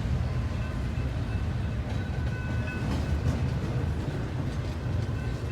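Intermodal freight train rolling past slowly: a steady low rumble of the cars on the rails, with faint high squeals coming and going.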